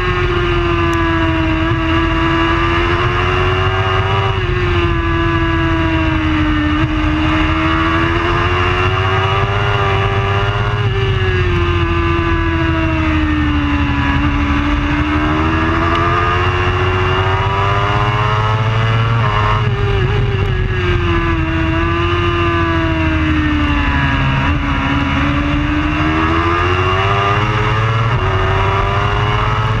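Superbike race engine held at high revs throughout, its pitch climbing and falling again and again as the bike accelerates and slows through corners, with a few sudden breaks in pitch.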